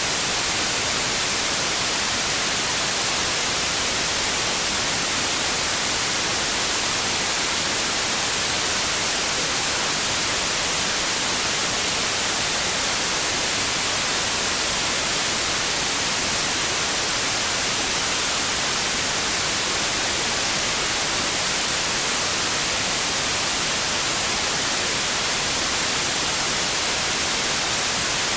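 Steady white noise, an even hiss with most of its weight in the high frequencies, unchanging throughout.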